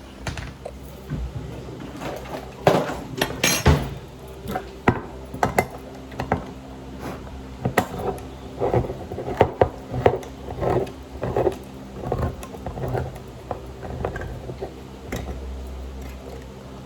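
Kitchen cookware and utensils being handled: irregular clanks and clinks of metal and dishes, some ringing briefly, loudest in clusters about three seconds in and again around nine seconds in.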